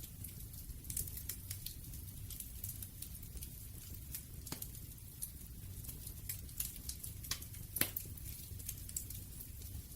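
Wood fire crackling: a low steady rumble with irregular sharp pops and snaps, the loudest about four and a half and nearly eight seconds in.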